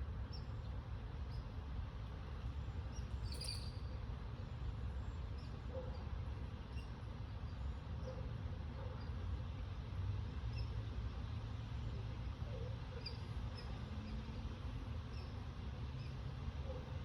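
Wind blowing steadily in a low rumble, with faint short high chirps scattered through it about once a second.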